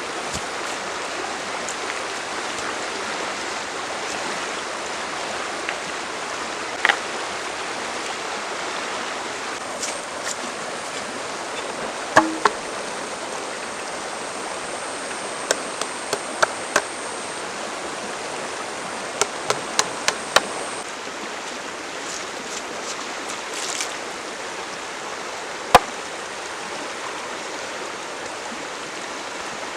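Steady rushing of a small stream, with scattered sharp knocks and clicks over it: a pair about twelve seconds in, a quick run of them a little past halfway, and a single loud one near the end.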